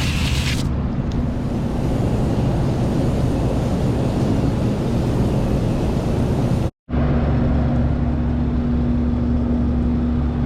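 Steady low mechanical rumble with a hum from a running machine. A short dropout about two thirds of the way through is followed by a clearer steady hum tone.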